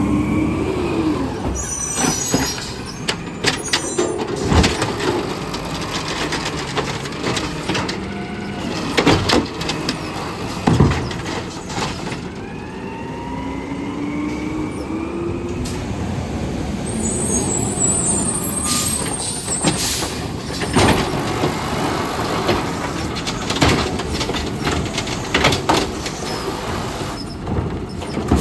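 Garbage truck working a collection stop. The engine revs up, rising in pitch twice, and there are sharp bangs and clatter of a cart being lifted and dumped, with air-brake hiss.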